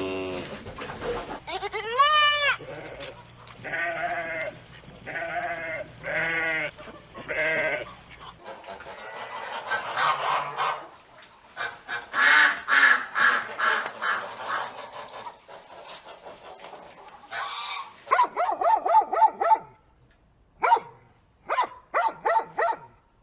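Goats bleating, about six calls a second or so apart, followed by a longer stretch of overlapping honking calls from geese that turn into rapid pulsed honks near the end.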